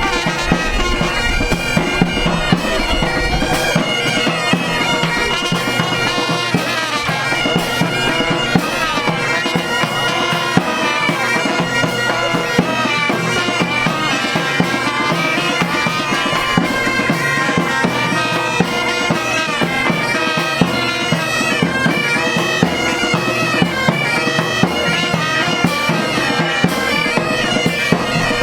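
A bagpipe band playing a tune over the pipes' steady drone, with frequent sharp beats.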